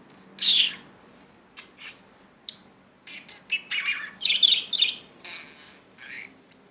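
Pet budgerigar chirping and chattering in short, high-pitched calls: one loud call about half a second in, a few scattered chirps, then a dense run of rapid chatter through the middle.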